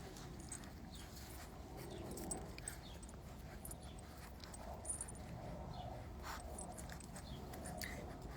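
Three-week-old Doberman puppies nursing: faint soft whimpers and grunts with scattered light clicks of suckling.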